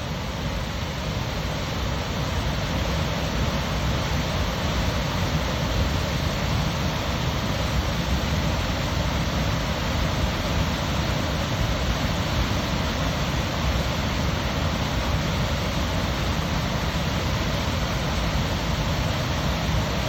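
Waterfall cascades rushing in a steady roar of falling water, growing slightly louder over the first couple of seconds and then holding even.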